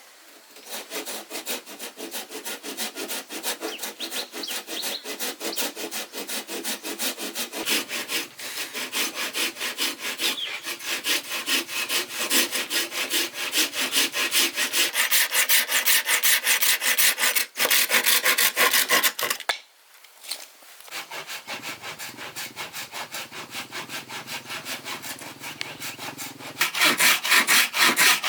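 Hand saw cutting through wood in quick, even back-and-forth strokes, about three a second. The sawing pauses briefly a little past the middle, then starts again and is louder near the end.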